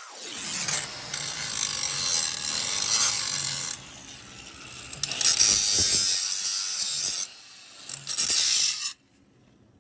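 Electric arc crackling on the steel frame in three bursts, a long one, a shorter one and a brief one near the end: arc gouging or welding of the cracked crossmember.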